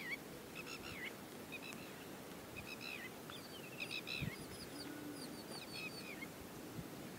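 Small birds chirping: clusters of short, quick calls every second or so, with some thinner, higher chirps among them, over a faint steady background hiss.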